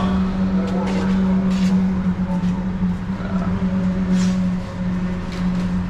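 A steady low machine hum with a constant pitch, broken by several brief hissing bursts.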